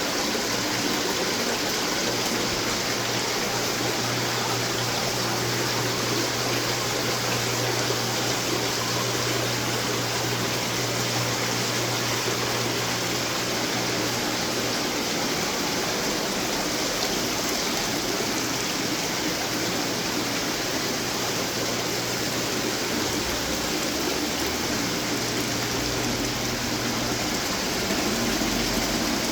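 Many decorative water fountains running at once: a steady rush of splashing and trickling water. A low hum runs under it for the first half and then stops.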